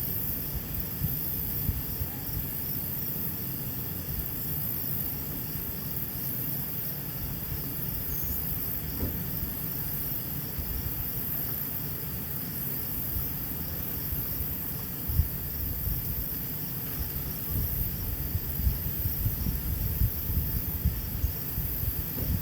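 Insects chirping in an even, steady rhythm over a constant high-pitched hiss, with an uneven low rumble underneath that grows busier near the end.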